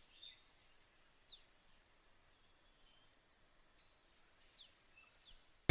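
Pale-billed flowerpecker calling: a sharp, very high note that falls slightly in pitch, given three times about one and a half seconds apart.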